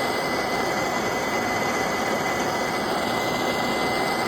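Gas torch flame burning with a steady rushing hiss and a thin, steady high tone under it, heating the afterburner cage materials.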